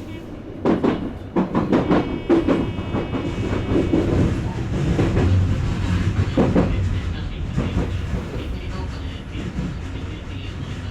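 Odakyu electric train running on the line, its wheels clattering over rail joints in a quick run of clunks during the first couple of seconds and again about six seconds in, over a steady low running hum.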